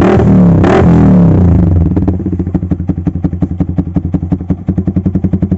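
Yamaha Vixion single-cylinder motorcycle engine through an aftermarket WRX GP6 exhaust silencer, blipped twice near the start with pitch rising and falling, then dropping to idle about two seconds in, with each exhaust pulse coming out as a separate sharp beat in a fast, even rhythm.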